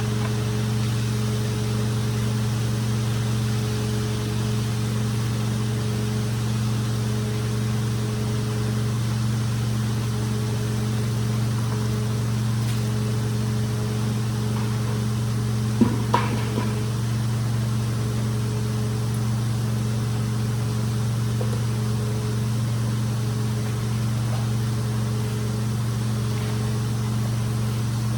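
A motor in rug-cleaning equipment running steadily with an even low hum. There are a couple of sharp knocks about sixteen seconds in.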